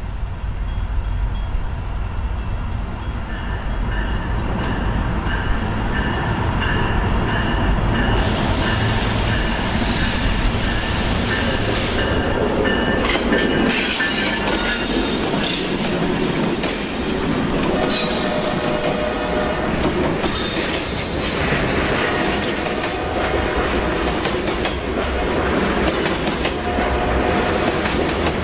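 Norfolk Southern freight train with an EMD SD60E and two GE D9-44CW diesel locomotives coming out of a tunnel and passing close by. A deep diesel rumble with a high wheel squeal grows until the locomotives go by about eight seconds in, bringing a much louder rushing noise. Covered hopper cars then roll past with wheels clacking over rail joints and squealing.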